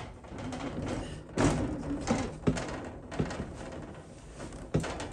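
Wooden window frame being handled and fitted into place: several separate knocks and thuds over a steady noise of handling.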